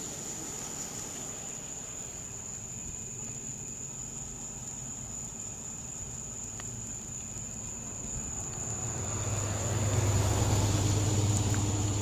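A motor vehicle approaching, its engine hum and road noise growing louder from about eight seconds in and peaking near the end.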